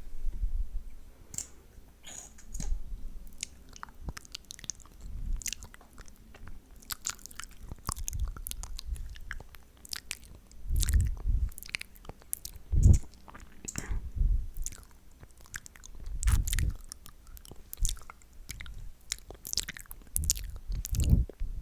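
Close-miked wet, sticky mouth sounds: irregular lip and tongue smacks and clicks, as of licking and mouthing lip gloss, with a few louder low thumps in between.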